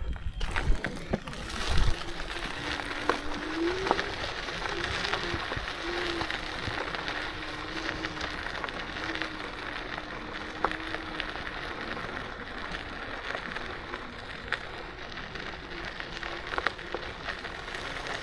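KuKirin G2 electric scooter rolling along a gravel path: a steady crunching hiss of tyres with scattered small ticks, and a faint wavering motor whine through the first half.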